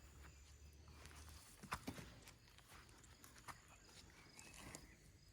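Near silence: faint outdoor ambience with a few soft knocks or clicks, the loudest a little under two seconds in.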